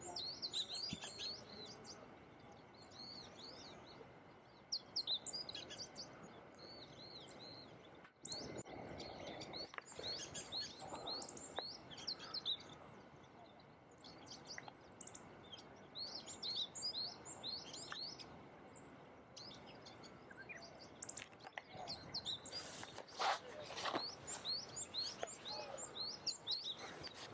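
Small wild songbirds calling with many short, high chirps in repeated clusters over a faint outdoor hiss. There is a brief noisy rustle about 23 seconds in.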